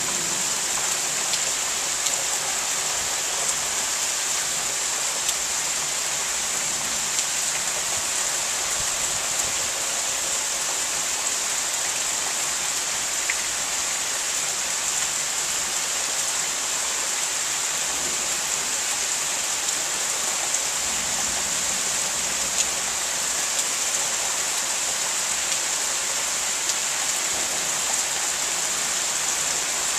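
Rain falling steadily during a thunderstorm: an even hiss, with now and then a single sharp drip ticking close by.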